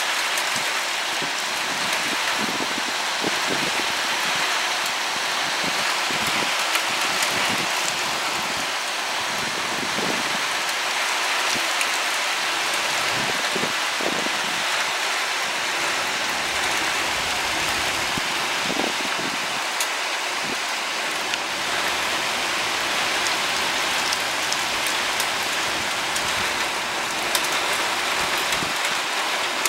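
Steady thunderstorm rain falling on a wet street, an even hiss with scattered drips and splashes.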